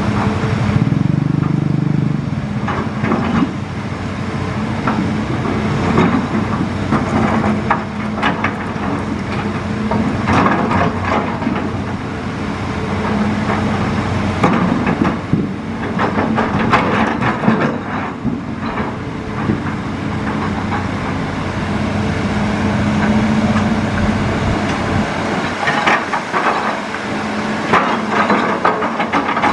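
A Hitachi Zaxis hydraulic excavator's diesel engine running steadily under load, with irregular clattering knocks and scraping as the bucket works through rock and gravel in the riverbed.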